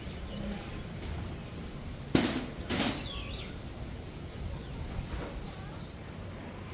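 Ambience of a walk-through bird aviary: scattered short bird chirps over a steady high-pitched insect drone. Two sharp knocks, the loudest sounds, come about two seconds in, half a second apart.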